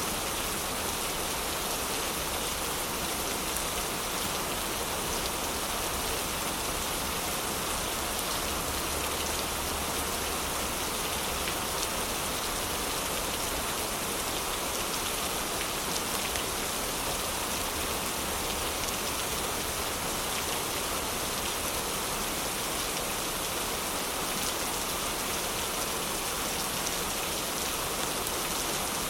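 Heavy rain falling steadily: a dense, even hiss of rain with fine pattering drops, unchanging throughout.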